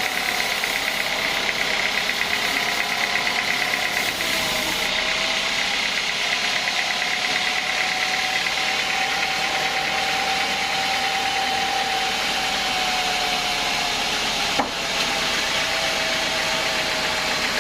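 Sawmill machinery running steadily: a continuous mechanical drone with a whine that drifts slightly in pitch. A single sharp knock sounds late on.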